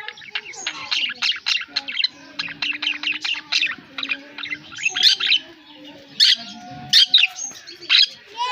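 Pet budgerigars chirping and warbling: a fast run of short chirps, with louder, sharper chirps spaced out through the second half.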